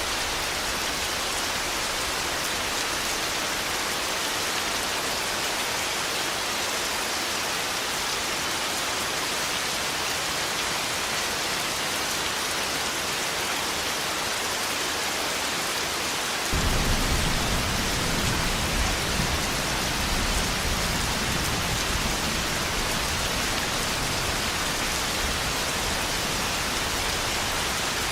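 Steady rain falling. About halfway through, a deep rumble of thunder comes in suddenly, loudest for a few seconds, then eases off while still rolling under the rain.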